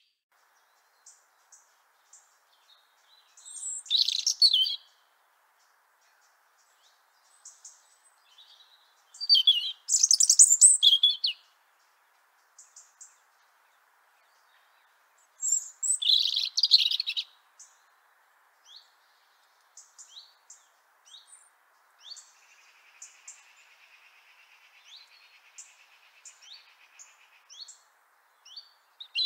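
European robin singing: three high-pitched song phrases of about two seconds each, several seconds apart, with faint short high notes scattered between them.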